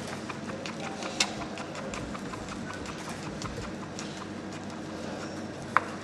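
Kitchen knife chopping garlic on a cutting board: a run of quick, uneven taps. A louder knock comes just after the first second, and a sharp ringing clink comes near the end.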